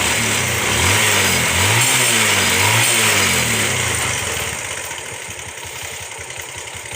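Bajaj Pulsar 150's single-cylinder engine revved up and down a few times, then settling back to idle near the end. It runs without timing chain rattle after the chain tensioner has been replaced and adjusted: the noise is cured.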